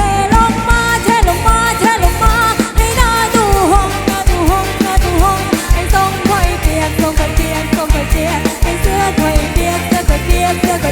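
Live band music with a singer's melody over a steady, pounding drum beat.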